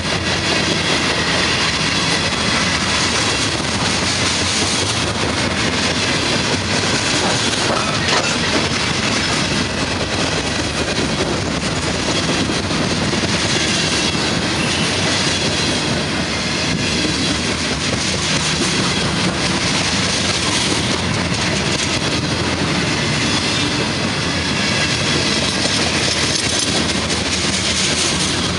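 Freight train cars rolling past at speed, a steady loud rush of wheels on rail with a run of clicks and clatter over the rail joints.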